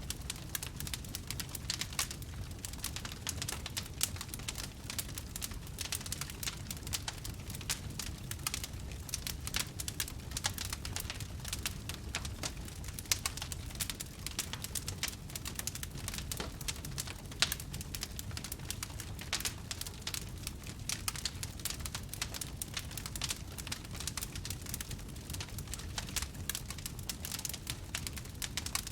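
Wood fire crackling steadily: dense, irregular pops and snaps over a low, steady rumble of the burning.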